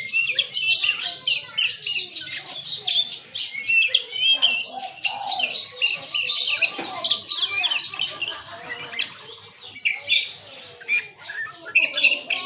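Oriental magpie-robin (kacer) singing a fast, varied stream of chirps and whistles, full of mimicked phrases of other birds' songs, with other birds calling behind it. The song thins out briefly about ten seconds in, then picks up again.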